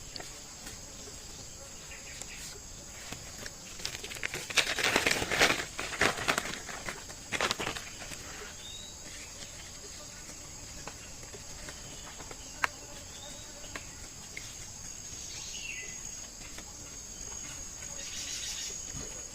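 Steady high-pitched insect drone of crickets, with a few short bird chirps over it and a burst of rustling about five seconds in.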